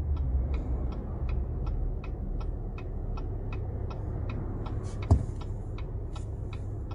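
A car's indicator clicking steadily, about three clicks a second, over the low rumble of the car inside the cabin, with a single thump about five seconds in.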